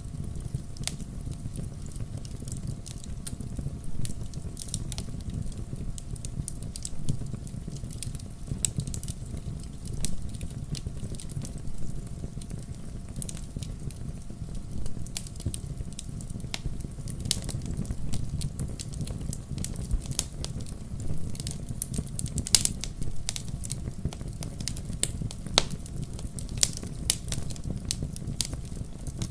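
Fireplace fire crackling, with frequent sharp pops over a steady low rumble.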